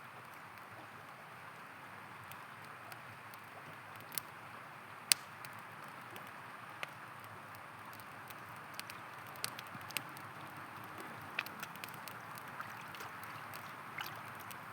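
River water running with a steady rush, overlaid by a campfire crackling, with scattered sharp pops; the loudest pop comes about five seconds in.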